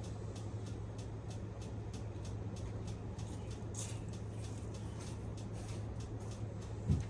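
Honeywell ceiling fan running, with a steady motor hum and a faint regular ticking about three times a second; the fan is off balance and some of its blades are loose. A short thump near the end.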